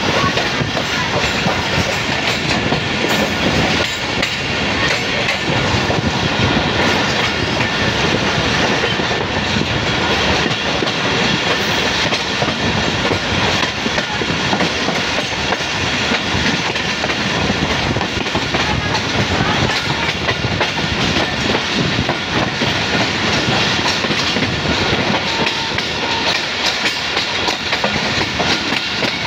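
Train running steadily, heard from on board as it pulls away from the station: a continuous rumble of wheels on the rails, with light repeated clicks over the rail joints.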